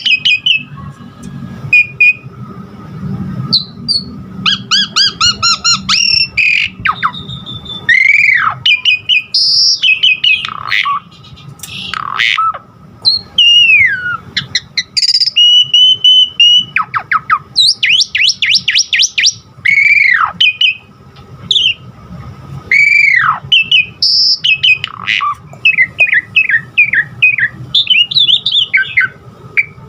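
Javan pied starling (jalak suren) singing a long, varied song: loud whistles that arch up and swoop down, rapid runs of short chirping notes, held clear whistles and harsher squawky calls, the varied 'isian' fill typical of a bird in full song.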